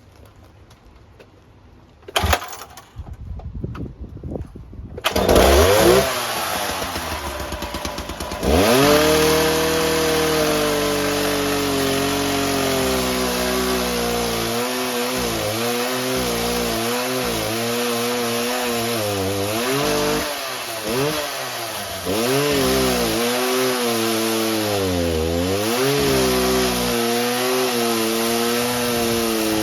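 Petrol two-stroke cut-off saw (Stihl saw) starting up about five seconds in, revving up a few seconds later, then running at high speed. Its pitch repeatedly sags and recovers as the diamond disc cuts through the drain pipe.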